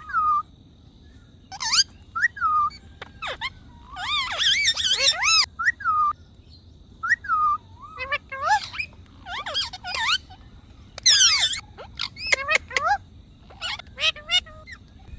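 A parrot calling in short bursts of high squawks and whistles that rise and fall in pitch, a dozen or so calls with short pauses between them.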